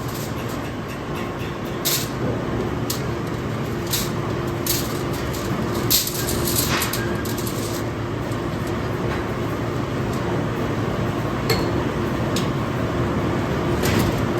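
Factory machinery running with a steady hum, and scattered sharp metal clinks every second or two.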